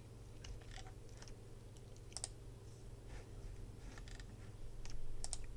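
Faint scattered clicks of a computer keyboard, some in quick pairs, over a low steady electrical hum.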